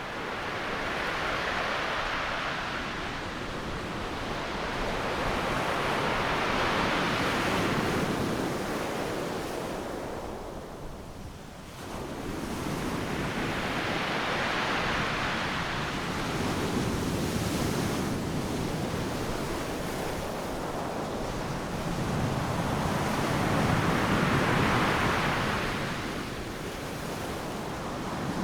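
Ocean surf breaking on a sandy beach: a continuous wash of wave noise that swells and eases every several seconds as each wave breaks and runs up, with a brief lull about twelve seconds in.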